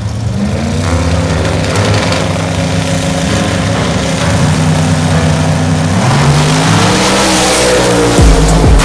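Drag racing car engine at full throttle, its pitch rising about a second in, holding, then rising again near the end. A few heavy low thumps come in the last second.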